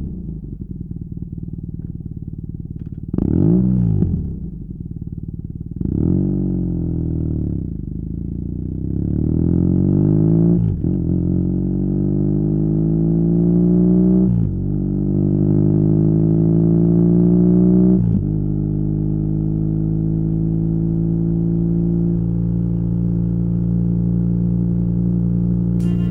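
BMW R nineT's 1170 cc boxer twin through a Competition Werkes slip-on exhaust: a short blip of the throttle, then the bike pulls away, the engine note climbing through each gear and dropping sharply at three upshifts, before settling into a steady cruise.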